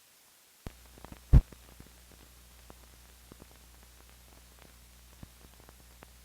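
Old film soundtrack coming in: a steady low hum with scattered clicks and crackles, starting abruptly under a second in, with one loud pop about a second and a half in.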